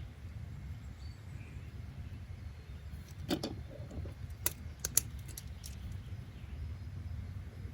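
Steady low background rumble, with a short run of light knocks and sharp clicks about halfway through.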